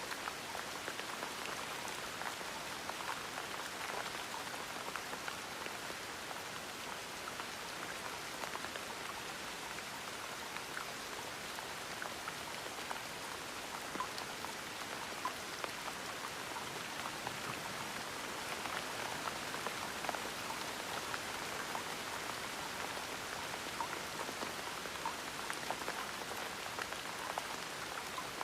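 Steady gentle rain, a continuous patter with many individual drops ticking on a surface.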